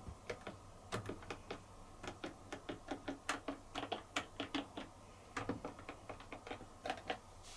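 Control-panel buttons on a Bosch dishwasher pressed over and over in quick succession, a run of sharp clicks with a short pause about five seconds in. The machine is stuck in service program P7 and doesn't respond to the presses, not even to reset.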